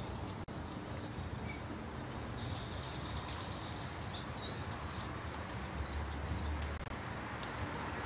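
A small bird chirping over and over, two to three short high chirps a second, over steady background noise.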